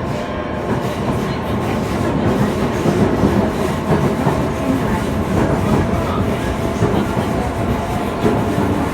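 Yokohama Municipal Subway Blue Line train running at speed: steady wheel-on-rail noise with clickety-clack over the rails and a faint steady whine.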